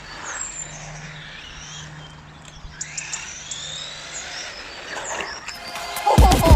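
Small birds chirping, with a faint steady low hum underneath. Loud electronic dance music with a heavy beat cuts in about six seconds in.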